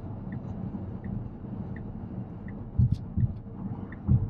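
Steady road and tyre rumble inside a moving car's cabin at freeway speed, with a faint high tick repeating about every 0.7 seconds and a few brief low thumps near the end.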